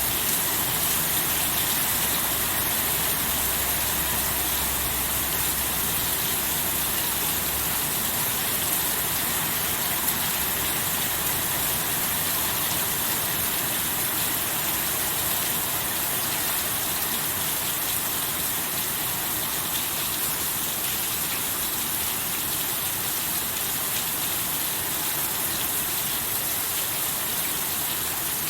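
Steady heavy rain, an even hiss of falling water, with a faint low rumble in the first several seconds.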